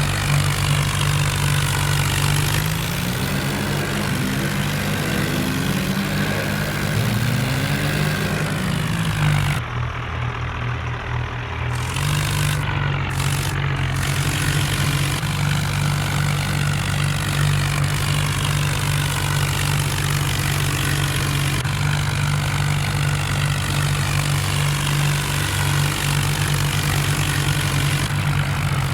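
Tractor diesel engines running hard and steady under load, their pitch rising and falling a little, with a short dip in loudness about ten seconds in.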